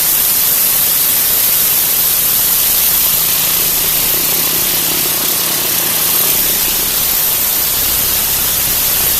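Gas-powered Ridgid pressure washer blasting a high-pressure water jet onto concrete: a loud, steady hiss. A faint low engine hum runs underneath.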